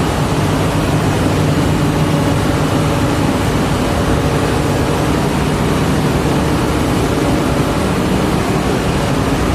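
A large diesel engine running steadily under a constant noisy rush.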